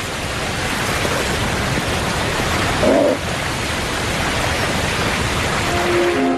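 Loud, steady rush of whitewater in a river's falls and rapids. A short pitched sound rises above it about halfway, and music tones come in near the end.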